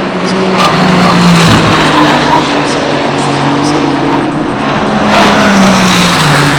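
GT race cars passing at speed one after another, each engine note dropping in pitch as the car goes by.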